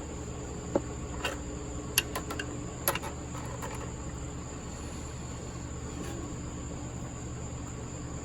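A handful of short, sharp metallic clicks and taps in the first three seconds, a wrench on the brass oil-sensor fitting of the buffer's engine. Under them runs a steady high cricket chirr and a low hum.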